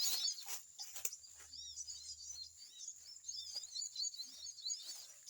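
Small birds chirping, a quick run of short, high chirps repeating over and over, with a few sharp clicks among them.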